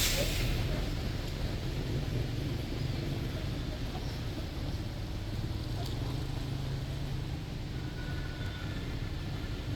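Steady rumble of a bus engine and road traffic, with a brief sharp hiss right at the start.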